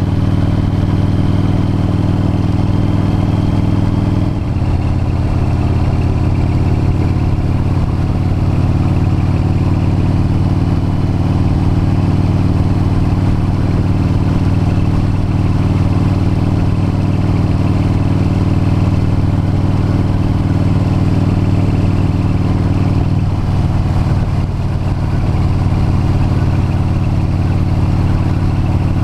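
V-twin motorcycle engine running steadily while riding, with a change in the engine note about four seconds in and again near the end.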